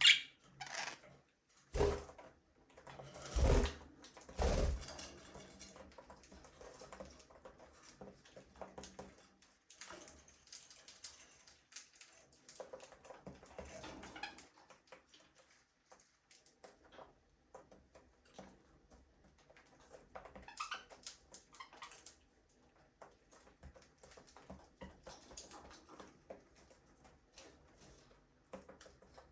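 Budgies in an aviary making scattered light clicks and scratches, the tapping of beaks and feet on perches and cage. There are a few louder knocks in the first five seconds.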